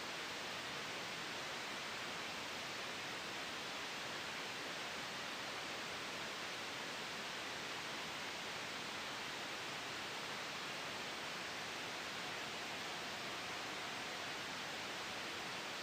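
Steady white noise made for sleep and noise masking: a soft, even hiss that never changes, with no gusts, tones or sudden sounds.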